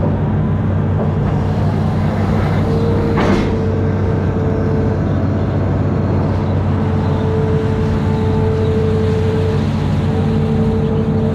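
Amphibious excavator's diesel engine running steadily under work, with a higher whine that cuts in and out and a single knock a little over three seconds in.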